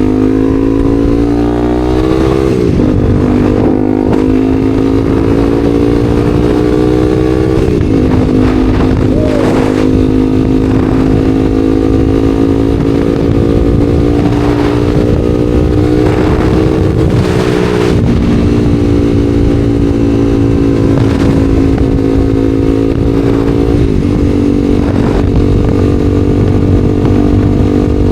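Honda CBR300R single-cylinder engine under way, pulling up through the gears. Its pitch climbs steadily in each gear and drops sharply at each of about four shifts.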